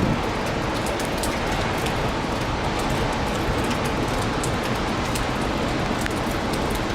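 Strong typhoon wind and surf at the beach, a steady, even roar with a low rumble of wind on the microphone and scattered faint crackles.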